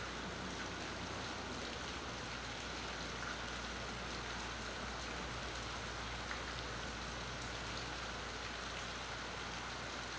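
Steady rain falling over a marina, an even hiss with the occasional faint tick of single drops, heard through a phone's built-in microphone. A low steady hum lies underneath.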